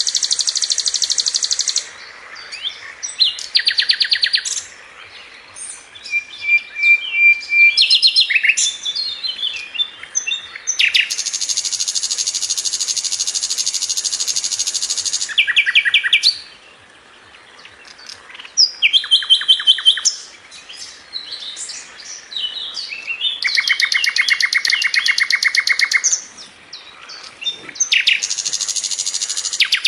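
Sikatan londo flycatcher singing a busy, high-pitched song of rapid rattling trills and chattering phrases. Several trills run unbroken for three to four seconds, with short choppy notes between them.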